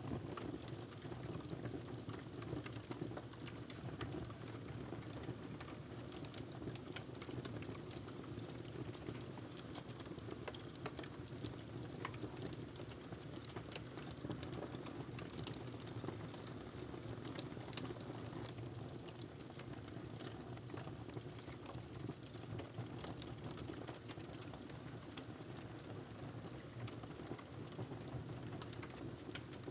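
Wood fire crackling in a fireplace: a steady low rumble of flames with frequent small irregular pops and snaps.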